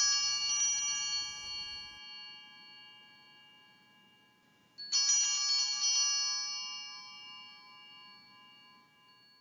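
Altar sanctus bell rung at the elevation of the chalice, marking the consecration of the wine. A ring is dying away, then the bell rings out again about five seconds in and fades slowly.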